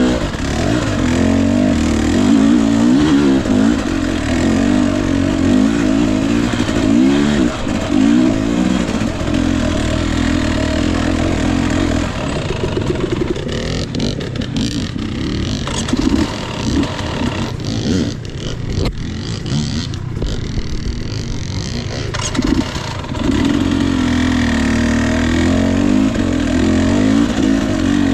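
Single-cylinder two-stroke engine of a Husqvarna TE 250i enduro motorcycle, revving up and down as it is ridden over rough trail. Through the middle it drops to low revs, with scattered knocks, then picks up again near the end.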